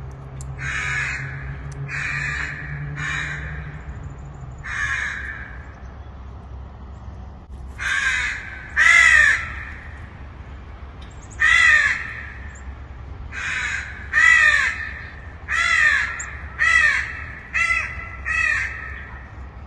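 Crow cawing over and over: about fourteen caws, some single and some in quick runs of two or three, with a pause of a few seconds in the middle.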